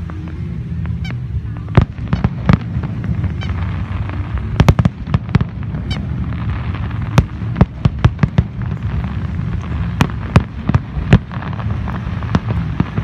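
Aerial fireworks bursting overhead: a rapid, irregular run of sharp bangs, some in quick clusters, over a low steady hum.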